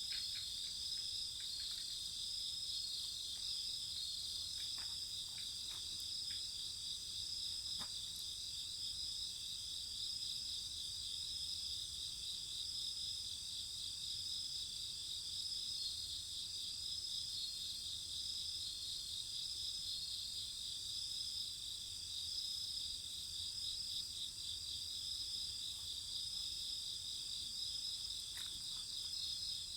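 Steady, high-pitched chorus of night insects trilling continuously, with a few faint crackling pops from a wood fire.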